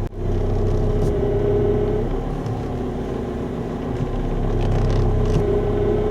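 Car engine idling with the power steering pump humming, a steady whine that comes in twice: in the first couple of seconds and again near the end, as the steering is worked. The hum persists after two fluid changes with a flush.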